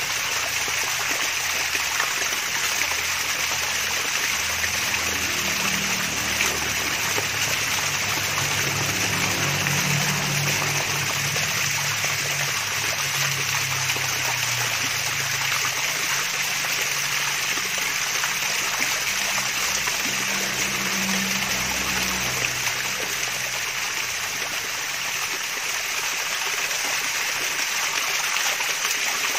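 Water splashing and trickling steadily over a small waterfall, a continuous hiss of falling water. Lower burbling comes and goes for the first twenty seconds or so, then fades.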